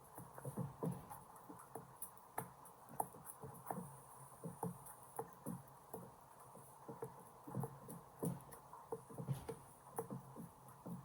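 Irregular light clicks and taps of small hard plastic parts being handled and struck, a few a second, as a toy dinosaur mechanical pencil is worked at to break it.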